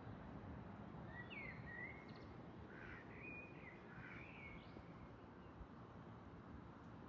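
A bird calling in a short series of gliding notes from about one second in until a little before the five-second mark, over a faint, steady low background rumble.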